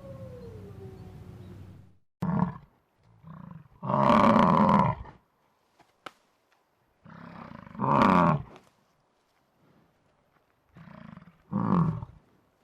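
A big cat roaring: five deep roars separated by silent gaps, the longest about a second and a half. A falling howl trails off in the first second or two.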